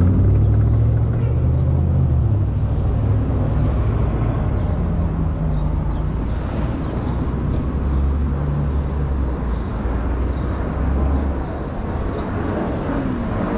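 Outdoor road traffic: a low, steady rumble of motor vehicle engines and tyres, with the pitch of the engines shifting as vehicles move.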